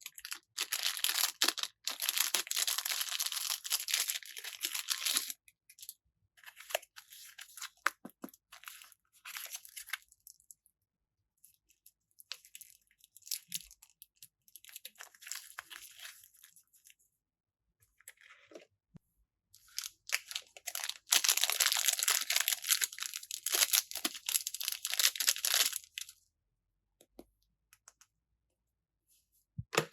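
Packaging bags being torn open and crinkled by hand in several spells of crackling, the loudest near the start and about two-thirds of the way through, with short quiet gaps between.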